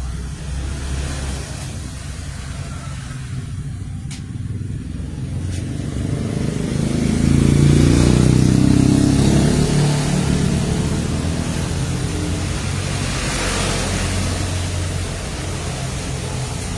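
A motor vehicle engine running, its low hum swelling about seven seconds in and then holding steady, with a couple of faint clicks in the first half.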